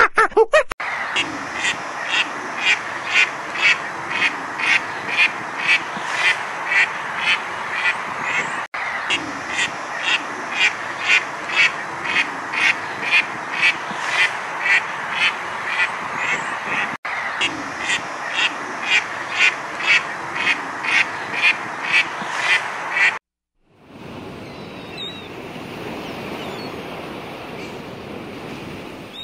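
A duck quacking in a steady run, about two quacks a second, which cuts off abruptly. For the last few seconds it gives way to sea surf with faint gull calls.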